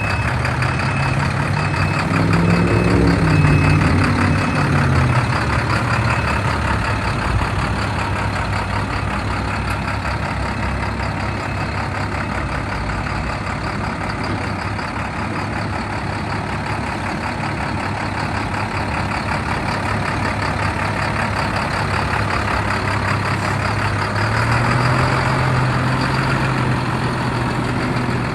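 Diesel engine of an International 4300 medium-duty truck running steadily. The engine speed rises and falls a few seconds in, and rises again near the end.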